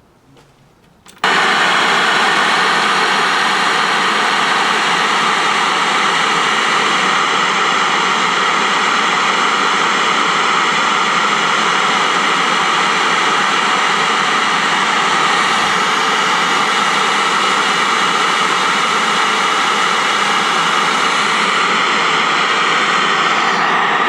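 A fire-damaged 1984 Sharp-built Montgomery Ward portable colour TV switched on, its speaker giving out loud, steady static hiss from an untuned channel. The hiss starts about a second in and cuts off abruptly near the end. The burnt set's audio still works.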